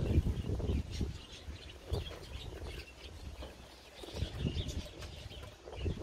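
Small aviary birds chirping in scattered short calls, with a low rumbling noise that rises at the start, again about four seconds in, and near the end.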